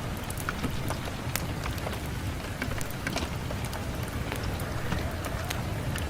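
Steady rain on a window: a constant hiss over a low rumble, dotted with sharp ticks of drops striking.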